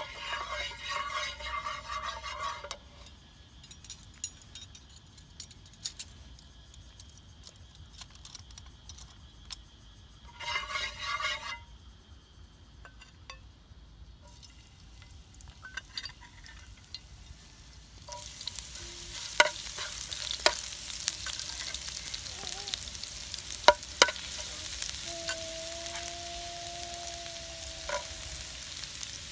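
Oil heating in a nonstick frying pan on a portable gas stove, then a loud sizzle from about two-thirds of the way in as sliced shallots, lemongrass and chili go into the hot oil. A metal spatula clicks and scrapes against the pan as they are stirred.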